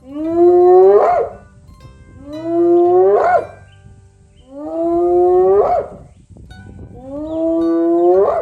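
An animal giving four drawn-out calls about two seconds apart, each rising slowly in pitch and sweeping up sharply at its end.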